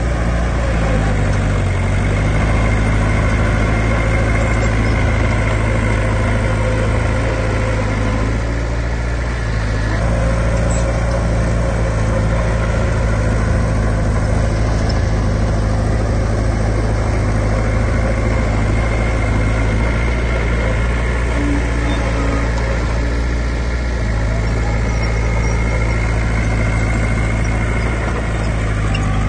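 Heavy diesel engine of earthmoving machinery running steadily, its tone shifting a little about ten seconds in and again some way before the end.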